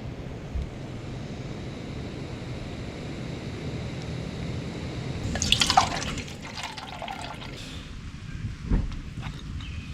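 Steady rain noise with a brief burst of splashing, dripping water about halfway through, and a single thump near the end.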